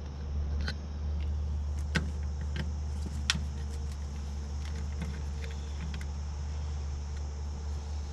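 Scattered small clicks and taps of wire, crimp connector and hand tools being handled during electrical hookup of a mini split, the sharpest about 2 and 3 seconds in, over a steady low hum.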